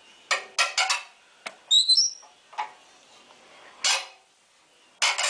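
Sharp metal clacks and knocks from a welded steel stove door with an eccentric clamp latch being worked shut: a quick cluster of strikes in the first second, then single ones spread through the rest. A bird chirps briefly about two seconds in.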